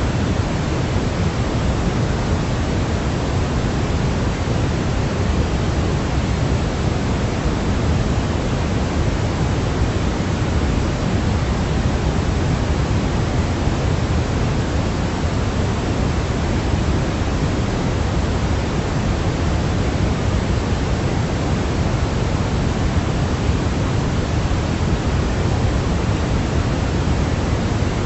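Steady baby-sleep noise track: an even, unbroken hiss that never changes, heaviest in the low end and softer toward the top, closer to pink noise than to flat white noise.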